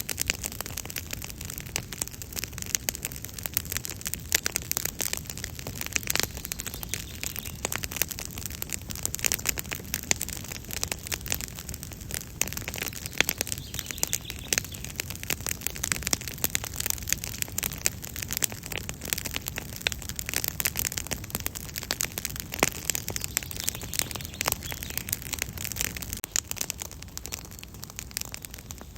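Wood campfire crackling and popping steadily, with many small irregular snaps over a low steady rumble of the flames.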